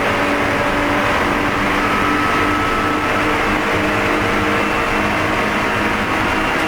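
Onboard sound of a Spec E46 BMW race car at speed: the engine runs at a nearly steady pitch under heavy road and wind noise.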